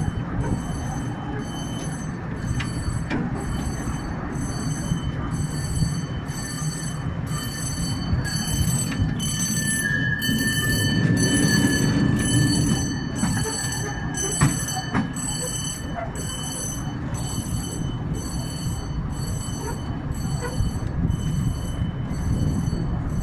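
Narrow-gauge park railway train running, heard from an open passenger car: a steady rumble of wheels on the track with a few sharp clicks, and a thin wheel squeal for a few seconds around the middle.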